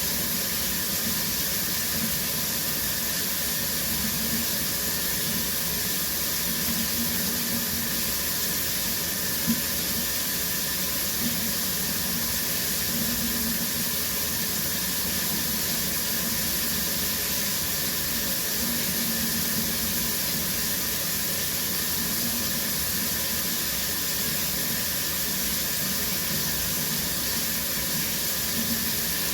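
Shower running steadily, water spraying from the head and falling as an even hiss. One brief small tap about nine and a half seconds in.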